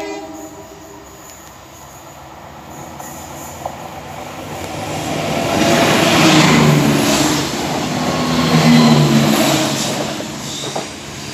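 Class 171 Turbostar diesel multiple unit passing close by on the line. Its underfloor diesel engines and wheels on the rails build up from about four seconds in, are loudest for a few seconds after the middle, then ease off near the end. The tail of its horn sounds right at the start.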